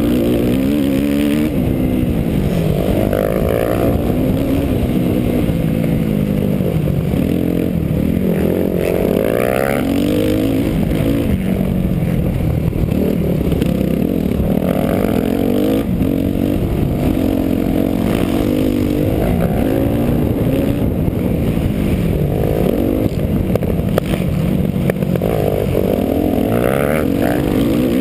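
Dirt bike engine heard close up from a camera on the bike, revving up and dropping back over and over as the rider accelerates, shifts and slows around a motocross track.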